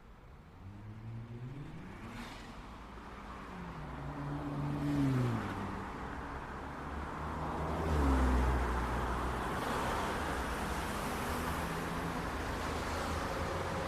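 City street traffic: car engines accelerating away and passing, their pitch rising and then falling, then a louder low rumble swelling about eight seconds in and settling into a steady traffic hum.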